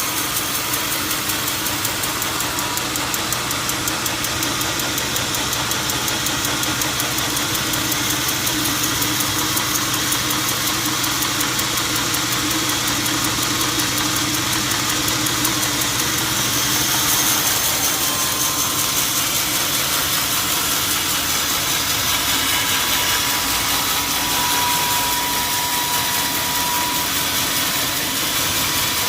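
A motor or engine running steadily, with a fine rapid pulsing in its noise.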